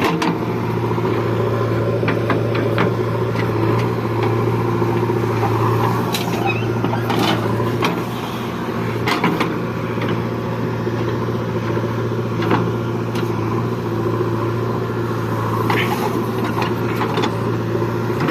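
Heavy diesel engine running steadily at one speed, with scattered sharp knocks and clanks from the machinery at work.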